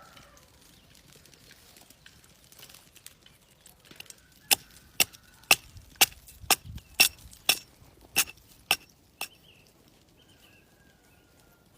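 A run of about ten sharp knocks, roughly two a second, starting about four and a half seconds in and stopping about nine seconds in.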